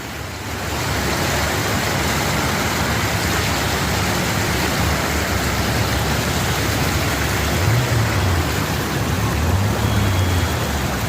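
Rushing floodwater, a steady, loud noise that swells about half a second in and holds.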